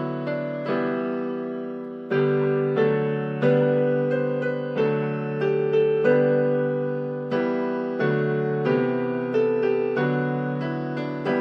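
Slow, gentle piano music: struck notes and chords that ring and die away, a new one every half second to a second.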